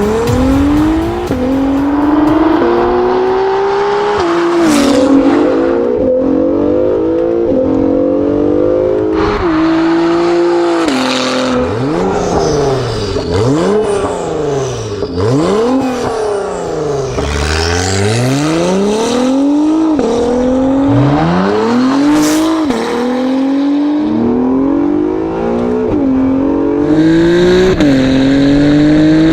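Acura NSX twin-turbo V6 through a Quicksilver stainless steel sport exhaust, pulling hard through the gears. The pitch climbs and drops sharply at each upshift several times. Midway it falls away and climbs again, and it builds once more near the end. The tone is described as crisp and almost titanium-sounding.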